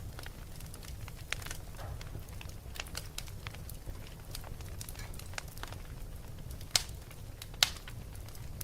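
Wood fire crackling: a steady low rumble of flames with irregular sharp pops and snaps, two louder pops near the end.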